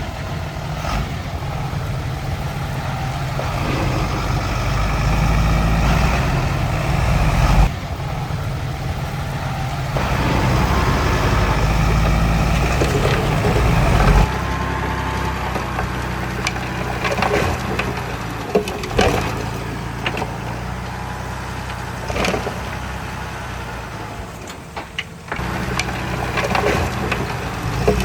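Heavy diesel earthmoving machinery running at a soil fill. The engine swells under load twice and eases back, and sharp clanks and knocks come at intervals through the second half.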